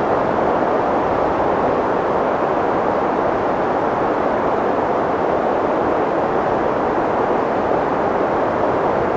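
Wind sound effect: a loud, steady rushing of wind, even throughout, with no whistling tone and no distinct gusts.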